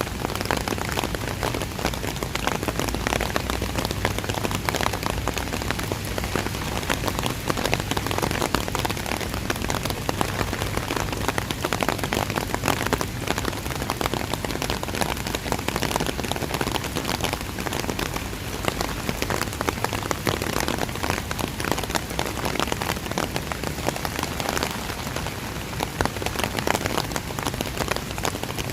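Steady heavy rain, a dense even hiss of countless small drop impacts.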